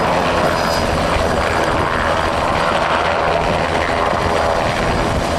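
Agusta Bell 206B helicopter in flight, its two-blade main rotor and turbine engine sounding steadily and loudly throughout.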